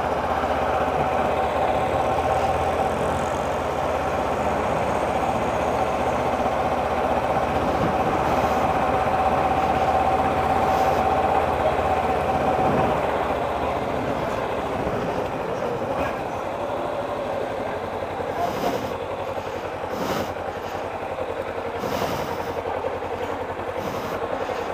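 A vehicle engine running steadily with street noise. Its held tone steps down in pitch about halfway through, and a few short clicks come near the end.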